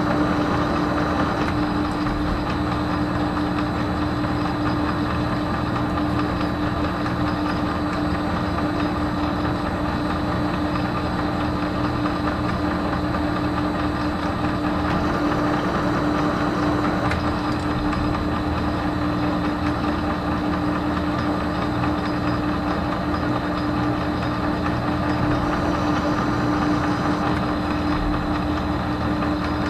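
Metal lathe running steadily with a constant motor and gear hum while single-point threading a 1/2-13 thread in stainless steel.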